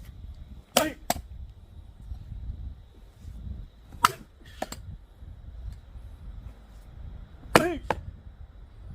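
Axe blows on a hard, old oak log: three heavy strikes about three seconds apart. Each strike is followed by a second, lighter knock, and the first and last strikes ring briefly.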